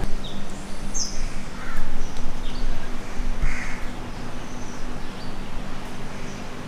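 Birds calling outdoors: several short separate calls and higher chirps about a second apart, over a steady low hum.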